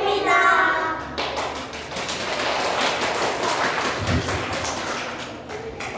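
Applause: many hands clapping for about five seconds, with a low thump about four seconds in.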